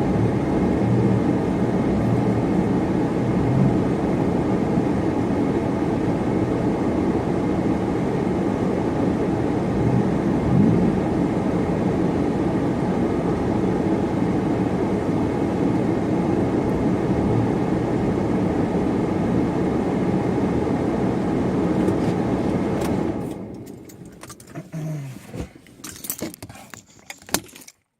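Supercharged car running with a steady engine and road rumble that stops abruptly about 23 seconds in. Scattered clicks and light rattles follow.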